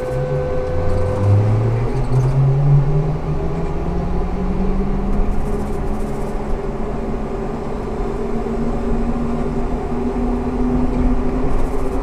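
Ikarus 280T GVM articulated trolleybus accelerating: the electric traction drive's hum climbs steadily in pitch as it gathers speed, over the low rumble of the ride.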